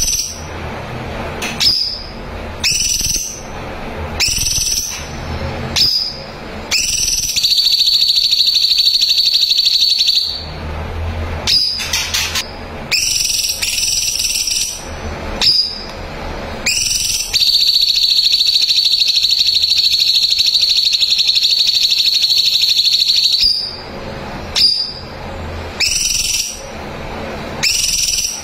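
Cucak cungkok singing: short rising whistled notes, broken by two long, rapid high trills, one about 3 s long a quarter of the way in and a longer one of about 6 s past the middle.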